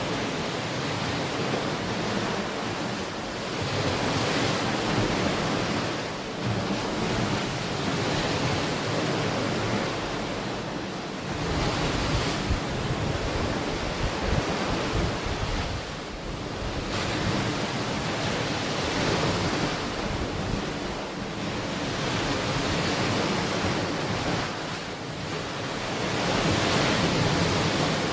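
Ocean waves breaking and washing onto a shore, the surf swelling and ebbing every few seconds, with some wind on the microphone.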